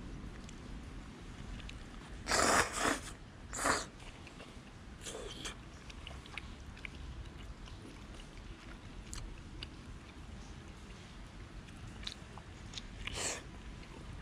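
A person eating udon noodles: a few loud slurps a couple of seconds in, another shortly after, and one more near the end, with quiet chewing between.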